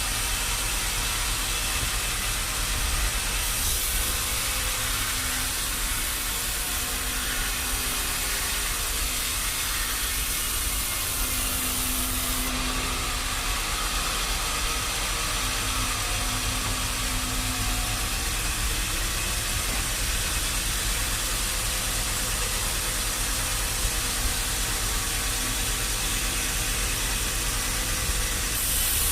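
Machinery running steadily: a low engine rumble under a constant broad hiss, with no cut starting or stopping.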